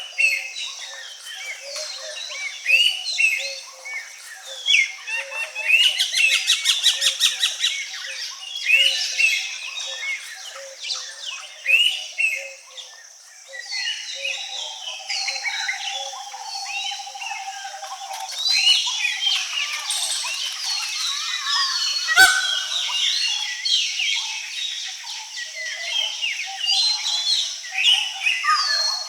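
Many wild birds chirping and calling over one another, over a steady high hiss. A rapid stuttering trill comes about a quarter of the way in, and a single sharp click about three-quarters through.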